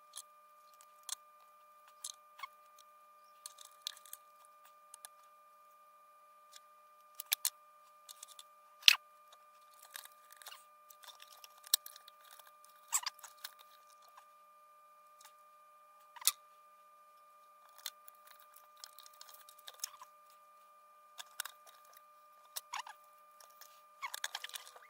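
Faint scattered clicks, taps and scratchy handling noises, as of small parts being worked by hand, over a steady high-pitched hum.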